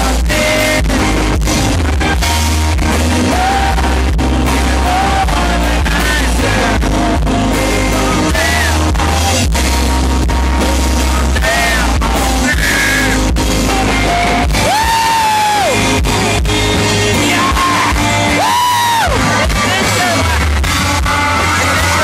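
Live country-rock band playing loud through a concert sound system: a male lead singer holding long gliding notes over electric guitars, bass and drums.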